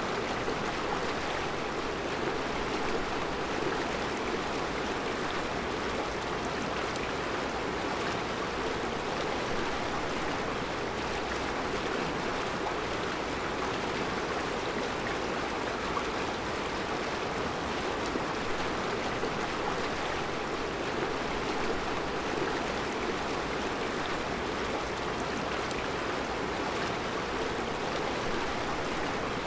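Mountain river flowing over round rocks in a rocky bed: a steady, even rush of water.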